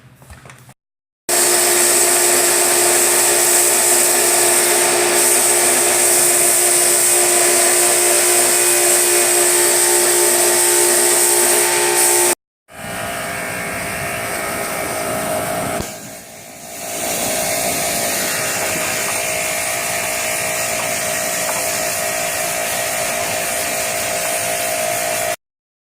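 A motorised tool running steadily with a hiss and a steady whine, in two stretches split by a sudden cut about twelve seconds in; the second stretch is quieter and dips briefly a few seconds later.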